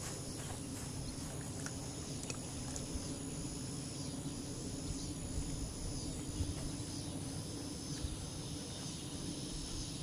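Evening outdoor ambience of insects chirring steadily in a high, repeating pattern, over a low rumble.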